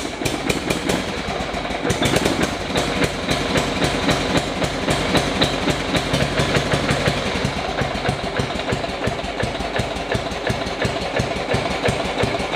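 Toro's small gasoline engine running steadily with a rapid, even beat, moments after a cold start with the choke just backed off.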